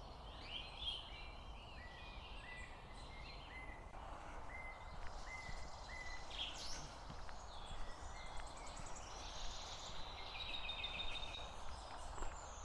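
Small birds chirping and trilling in open countryside over a steady hum of distant motorway traffic, the birds busier near the end.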